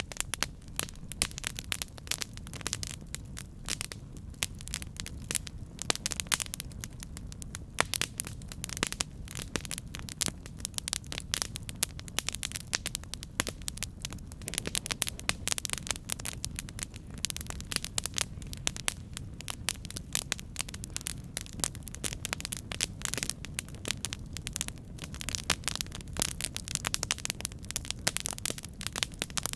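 Campfire burning with dense, irregular crackling and popping over a steady low rumble of the flames.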